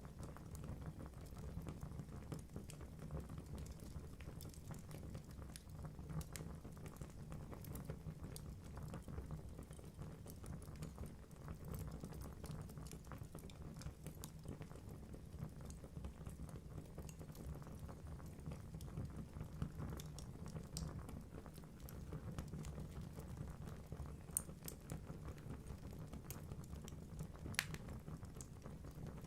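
Wood fire burning in a fireplace: a low steady rumble of flames with constant soft crackling and a few sharper pops, the loudest two near the end.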